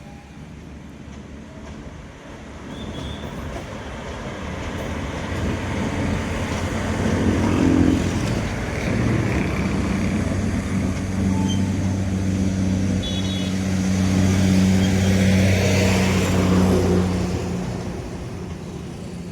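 Electric express train hauled by a WAG9HC locomotive approaching and running past: its rumble builds over the first several seconds, holds with a steady low hum for about ten seconds, then fades near the end.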